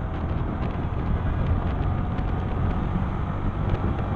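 Yamaha R15M's 155 cc single-cylinder engine running steadily under way at highway speed, mixed with wind rushing over the microphone.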